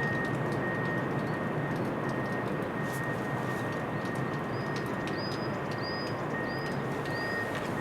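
Small bird chirping in short, repeated calls, about twice a second toward the end, over a steady rushing noise. A high steady tone sounds on and off throughout.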